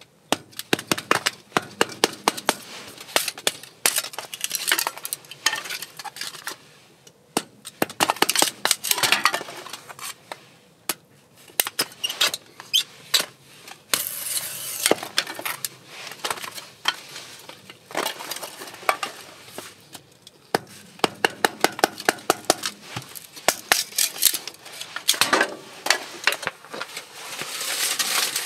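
Small hatchet splitting firewood into kindling: runs of quick, sharp taps and cracks as the blade is knocked into the wood and the sticks split apart, with short pauses between the runs.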